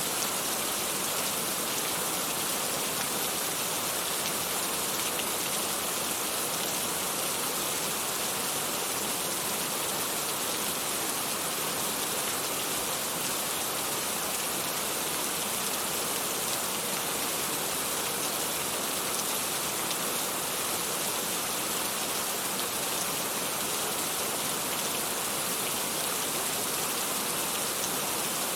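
Steady rain falling, an even hiss with no music.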